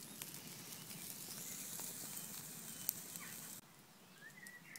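Cumberland sausage sizzling over an open campfire, a steady hiss with a few sharp pops, one louder about three seconds in. The hiss cuts off suddenly near the end.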